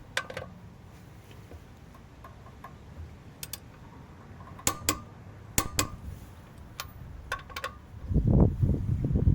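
Sharp metallic clicks, several of them in close pairs, from tool work on a wheel's lug nuts with the torque setting at 190. About 8 seconds in, a louder low rumble starts.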